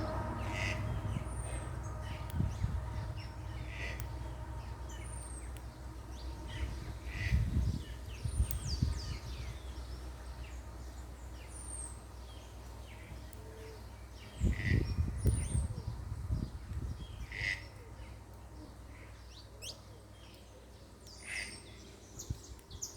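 Small birds chirping and calling, with a thin, high, falling note repeated every few seconds among shorter chirps. Low rumbles come twice, briefly.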